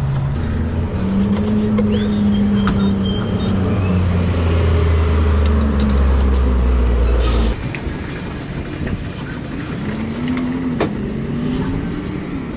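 Harley-Davidson motorcycle engine heard while riding in traffic, with road noise. The engine note steps down in pitch and drops off suddenly about seven and a half seconds in, then rises and falls a few times near the end.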